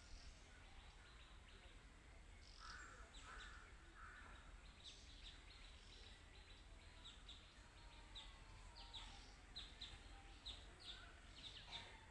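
Faint outdoor birdsong: many short, high chirps that fall in pitch, repeated throughout, with three lower calls a few seconds in.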